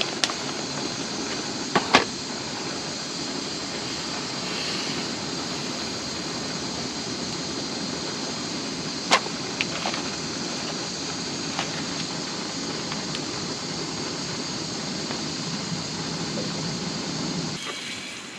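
Portable gas camp stove burner hissing steadily while boiling water for a dehydrated meal, with a couple of sharp clicks. It cuts off suddenly near the end.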